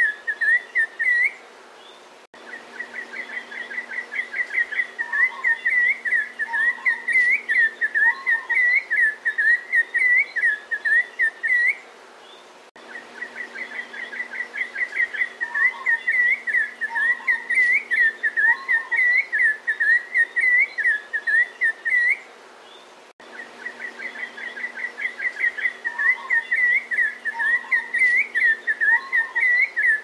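Zoo birds chirping in a fast run of high whistled notes, with three lower calls partway through. The recording repeats about every ten seconds, with a brief pause between repeats.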